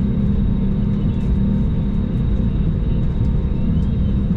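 Steady engine and cabin drone of an Airbus A321 taxiing, heard from inside the passenger cabin, with a constant low hum.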